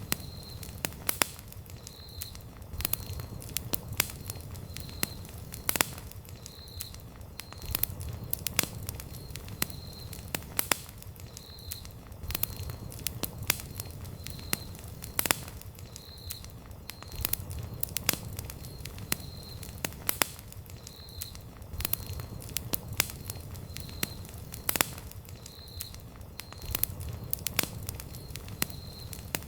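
Wood campfire burning, with irregular sharp crackles and pops over a low rumble of flame. A faint, high, short chirp repeats roughly once a second.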